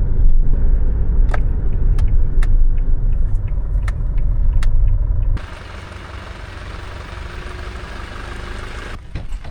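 Low road rumble of a vehicle on the move, with a few sharp clicks. About five seconds in it cuts off abruptly to a softer, even hiss.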